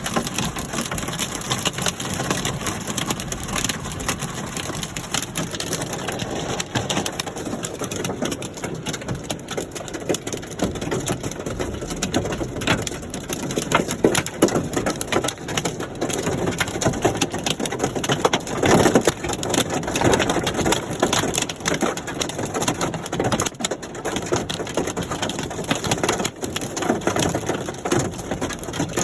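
Hailstones falling in a storm, a dense steady crackle of countless small ice impacts on hard surfaces, growing a little stronger about two-thirds of the way through.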